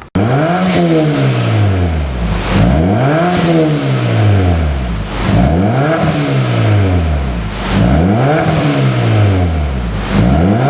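Kia Forte Koup 1.6's four-cylinder engine through an aftermarket single valved exhaust, revved again and again: each rev rises quickly and then falls back over a second or two, about five times.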